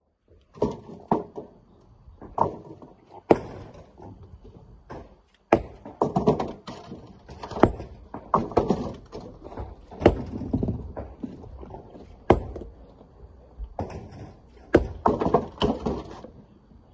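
Rocks being handled by hand: about a dozen heavy knocks and thuds at irregular intervals, some followed by a short clattering rattle.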